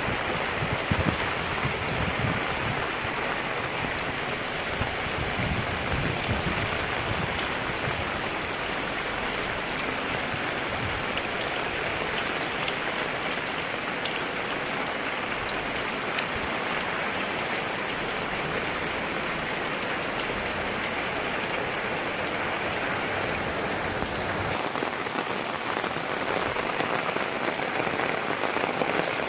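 Heavy rain falling steadily, a dense even hiss, with a low rumble under it through the first part.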